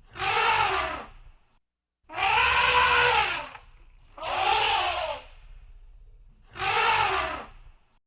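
Elephant trumpeting: four loud calls of about a second each, roughly two seconds apart, each rising and then falling in pitch over a low rumble.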